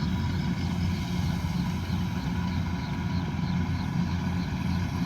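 Kubota combine harvester's diesel engine running steadily under load, with a faint, even ticking from the machine at about three ticks a second.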